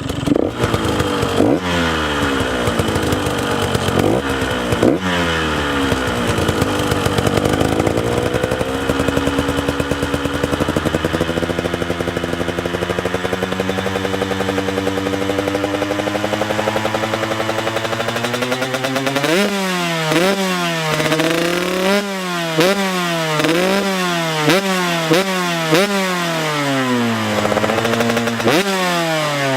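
2017 KTM 125 SX single-cylinder two-stroke dirt-bike engine running, its pitch sweeping up and down at first, then holding a steady, slowly rising drone. From about two-thirds of the way in, the throttle is blipped repeatedly, about once a second, each rev rising sharply and falling back.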